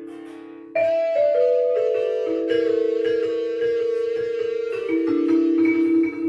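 Ensemble music on tuned mallet percussion with long-ringing notes. A held chord dies away, then about three-quarters of a second in a run of notes enters one after another and builds into overlapping ringing tones.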